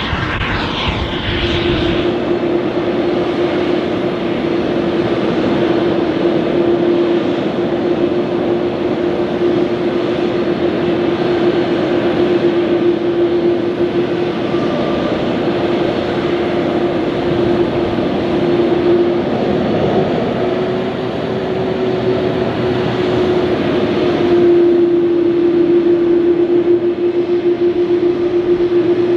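Airbus A330-302's GE CF6-80E1 turbofan jet engines running steadily: a constant whine over a broad engine rush. A rippling, sweeping sound is heard briefly at the start, and the rush grows a little louder about 24 seconds in.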